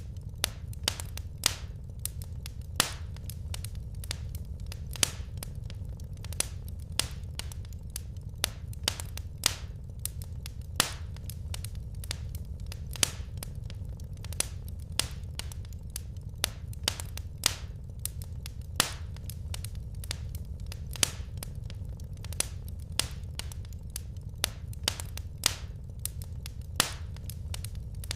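Wood fire burning in a fireplace, with frequent sharp crackles and pops over a steady low rumble.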